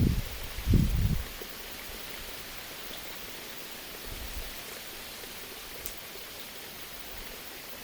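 Low rumbling on the microphone for about the first second, giving way to a steady, even hiss like rain or running water, with a few faint ticks.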